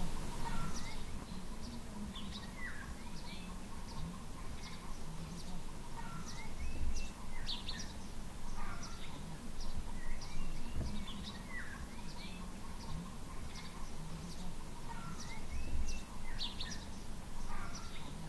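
Small birds chirping and calling: many short high chirps and a few sweeping calls, repeated throughout, over a low background rumble.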